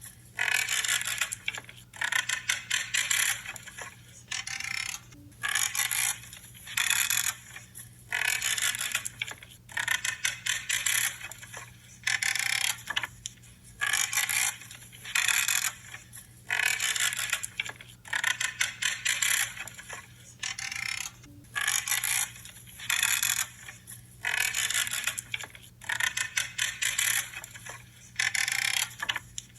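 Branches being cut over and over, each cut a creaking, crackling crunch of about a second, coming roughly every two seconds, over a faint low hum.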